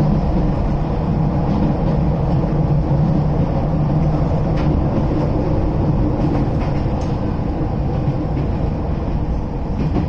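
Electric train running, heard at the gangway between two cars: a steady low rumble, with a few faint clicks from the rattling gangway connection.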